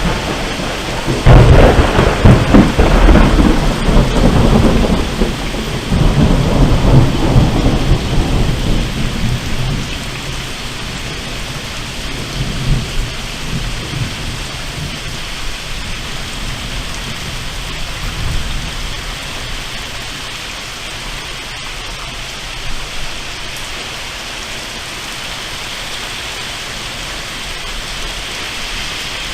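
A loud thunderclap about a second in, rumbling on for several seconds and dying away, with fainter rumbles later, over steady rain.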